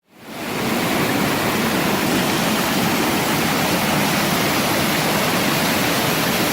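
Waterfall rushing in a steady, even wash of noise, fading in from a moment of silence at the start.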